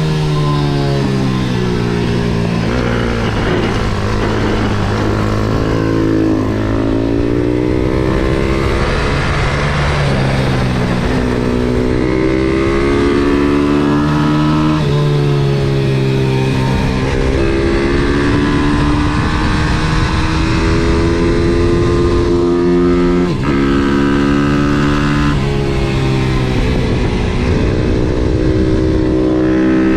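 An MRF 140 SM pit bike's small single-cylinder four-stroke engine, heard on board at racing pace. The note climbs again and again under throttle, then drops sharply at each gear change and each slowdown for a corner.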